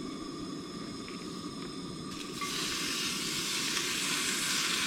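Bacon frying in a pan on a propane stove, a steady sizzle that turns suddenly louder and brighter about two and a half seconds in.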